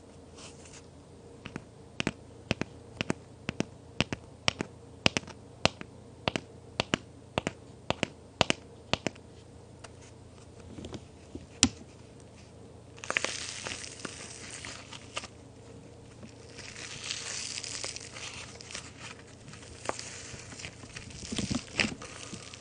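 Hard plaster-and-clay cookies giving a run of sharp clicks, about two a second, for the first several seconds, then crunching and crumbling continuously as they are broken up through the second half.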